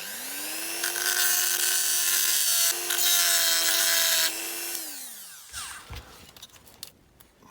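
Dremel rotary tool with a flat-faced bit spinning up, then grinding at a rivet that holds a die-cast model car's dashboard in for about three seconds. It winds down and stops about five seconds in.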